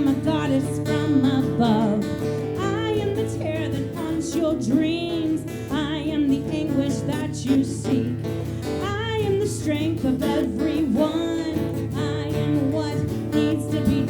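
Live Celtic folk band playing, with acoustic guitar under a wavering melody line.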